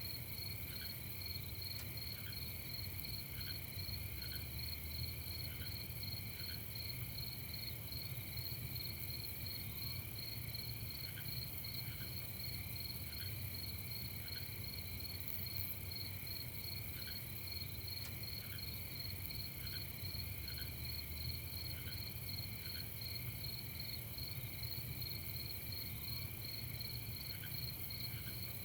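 Night insect chorus: a steady, rapidly pulsing high chirring from many insects, with short soft chirps scattered through it and a faint low hum underneath.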